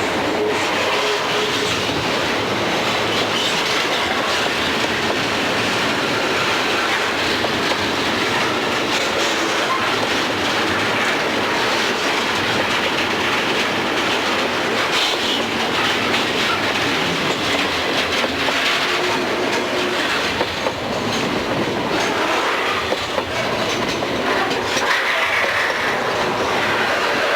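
Freight train cars rolling past at steady speed, wheels clattering over the rail joints.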